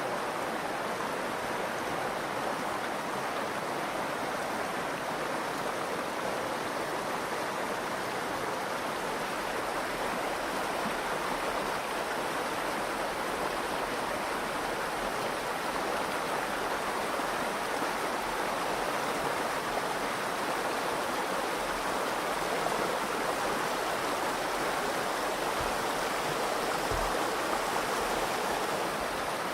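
Virgin River water flowing in a steady, even rush.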